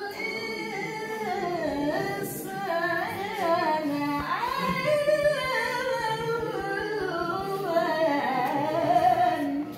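Unaccompanied melodic Quran recitation in a maqam: a single voice holds long, ornamented notes that slide up and down in pitch, stopping just before the end.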